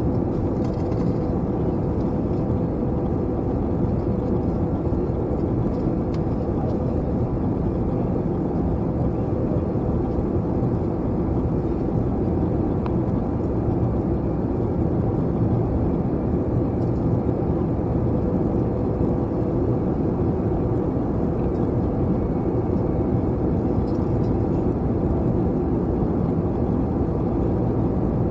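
Steady cabin noise inside an Airbus A321 airliner in flight: an even, low rush of engines and airflow, with a faint steady hum.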